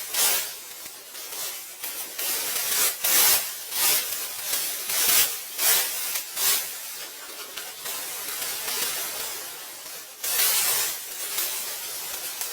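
Irregular hissing strokes of something being rubbed or scraped over a surface, some strokes sharper and louder than others.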